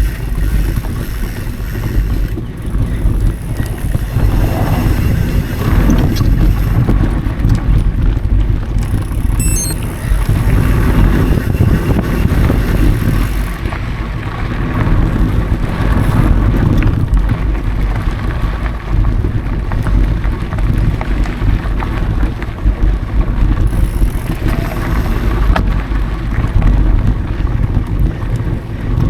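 Wind buffeting an action camera's microphone while a mountain bike rides dirt singletrack, with the tyres rolling and the bike rattling over bumps.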